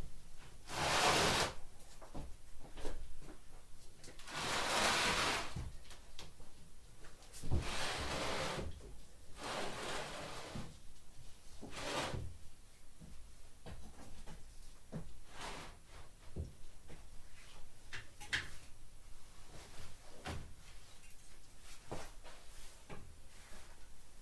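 Workshop handling sounds: irregular knocks and clatter, with several scraping bursts of about a second each in the first half, as the trailer is worked on by hand.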